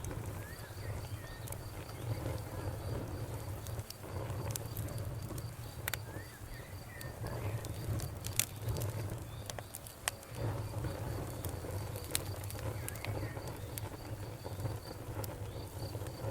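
Campfire crackling with scattered sharp pops, the loudest about eight seconds in, over a low steady rumble. A cricket chirps in a fast, even pulse throughout, and a few short high chirps come now and then.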